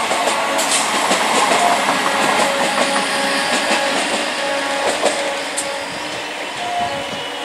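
Indian Railways EMU local trains running past at close range: a steady rush of wheel-and-rail noise with a faint steady hum and scattered clicks, easing off slightly near the end.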